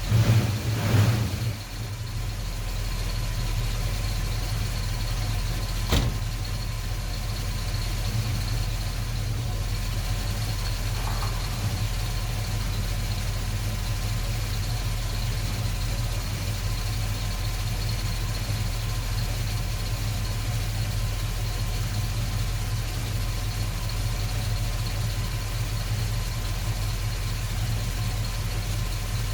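1974 Dodge Charger engine idling steadily, louder for the first second or two, with one sharp click about six seconds in.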